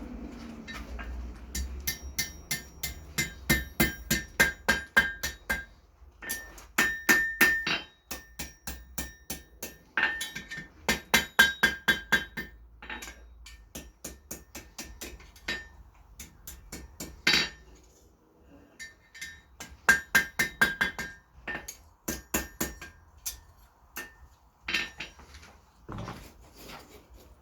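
Hand hammer striking mild steel round bar on an anvil in bursts of quick blows, about four a second, each with a bright metallic ring, with short pauses between the bursts.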